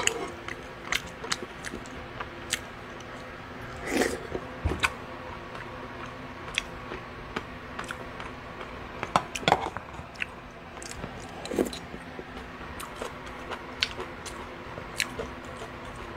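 Close-miked eating sounds of a man chewing spoonfuls of samgyetang (chicken and rice soup): irregular wet mouth smacks and small clicks, a few louder ones about four seconds in and again near ten seconds.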